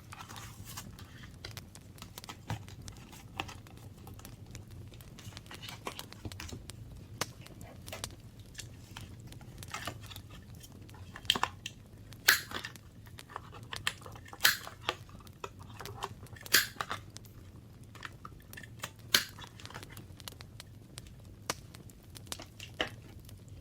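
Paper and crafting materials handled on a desk: irregular soft rustles, taps and clicks, a few sharper ones in the middle stretch, over a faint low hum.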